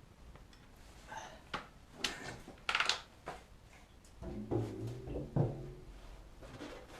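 Handling noises from work on a motorcycle engine: a few knocks and scraping clatters, then a short low hum with a knock about four to five seconds in.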